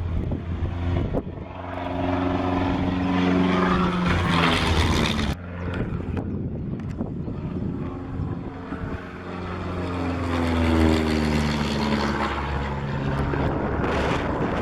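de Havilland DHC-1 Chipmunk T10 flying past, its four-cylinder Gipsy Major engine and propeller droning, with the pitch falling as it passes. The sound breaks off suddenly about five seconds in, then a second pass follows with the pitch dropping again.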